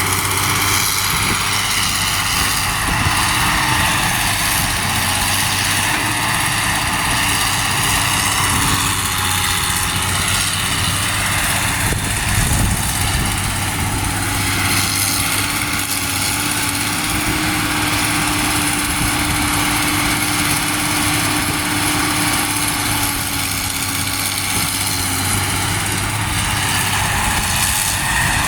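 Truck engines running steadily in a continuous low hum, with no sudden events.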